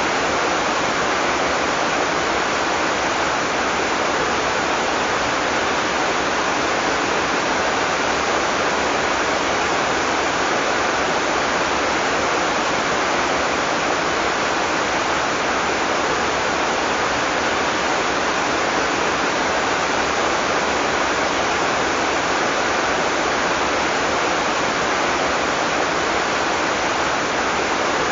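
Heavy tropical rain falling steadily, an even dense hiss with no thunder.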